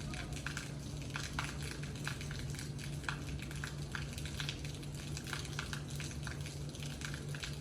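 Rain falling, with steady hiss and many irregular drops ticking and tapping on nearby surfaces. A steady low hum runs underneath.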